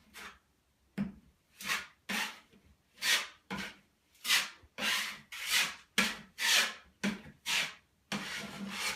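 A broad drywall knife scraping as it spreads spackle over drywall tape on a patched hole in drywall: about a dozen short swipes in quick succession, with a longer one near the end.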